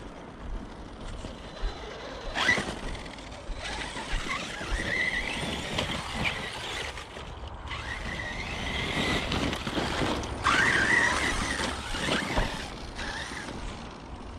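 Arrma Notorious RC truck's 1250kv Spektrum brushless motor whining, its pitch rising and falling as the truck speeds up and slows down, with a couple of sharp knocks about two and a half and ten and a half seconds in.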